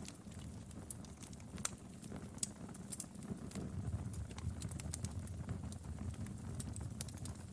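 Wood fire crackling and popping in a fireplace: irregular sharp snaps over a low, steady rumble of the flames.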